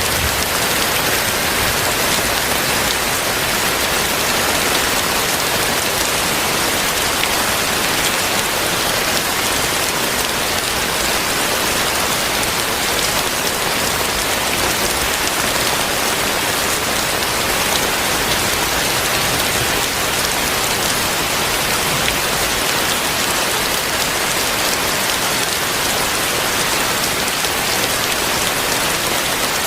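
Heavy rain falling steadily and hard, a dense even hiss of drops on surfaces.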